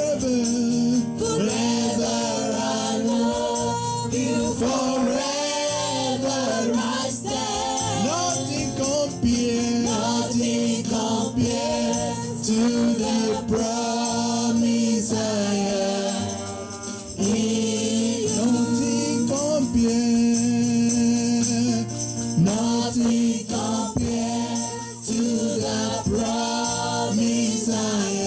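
Gospel worship song: several voices singing together over band accompaniment, with jingling percussion such as a tambourine.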